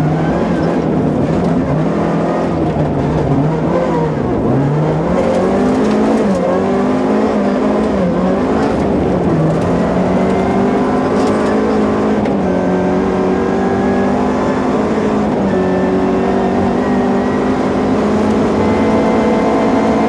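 Opel Kadett GSi 16V rally car's 2.0-litre 16-valve four-cylinder engine heard from inside the cabin, revving hard. In the first ten seconds the pitch drops and climbs again several times through gear changes, then it holds high revs.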